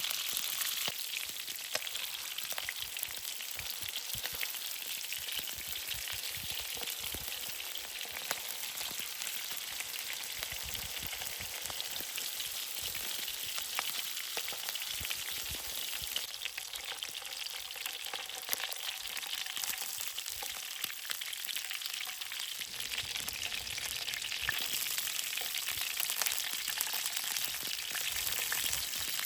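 Food frying in hot oil in a pan: a steady sizzling hiss dotted with fine crackles.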